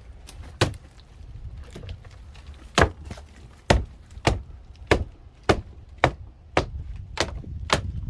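Hammer blows on wood framing: a single strike, then a steady run of about nine blows, nearly two a second.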